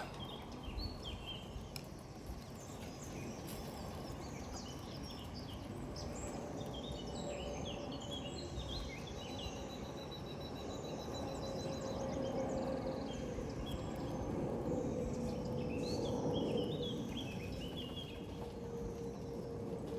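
Outdoor ambience of wild small birds chirping, with one rapid trill about nine seconds in, over a steady background hiss. A faint low steady hum comes in during the second half.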